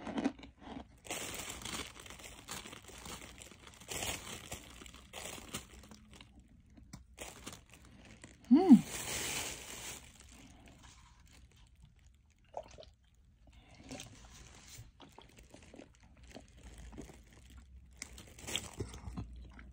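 Close-miked crunching and chewing of hard starch chunks: irregular crisp crunches with a crinkly edge. About eight and a half seconds in comes one short, loud vocal sound.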